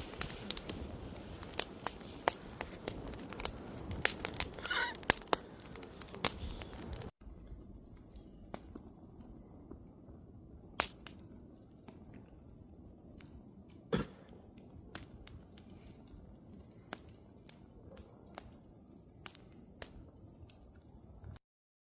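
Wood fire crackling, with sharp pops and snaps over a low hiss. About seven seconds in it suddenly drops quieter, the pops becoming sparser, and it cuts off just before the end.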